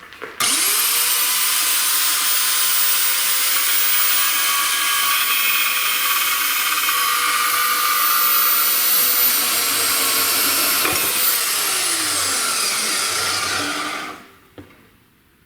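Small electric band chop saw starting up with a rising whine, running steadily for about ten seconds through a cut clamped in its vise. A click comes near the end, then the motor winds down with falling pitch.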